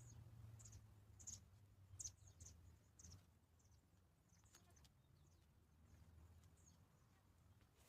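Faint, short high-pitched chirps from small birds, several in quick succession in the first three seconds and a few scattered ones later.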